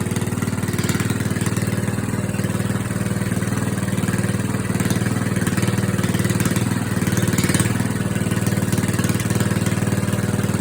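Small carbureted engine running steadily at a raised throttle while it warms up after a cold start, nearly at operating temperature.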